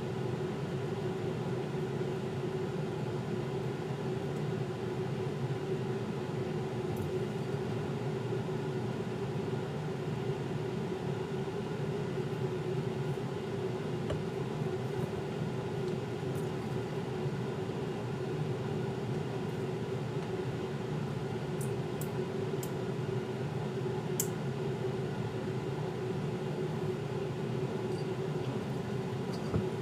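A steady machine hum that does not change, with a few faint ticks in the last third.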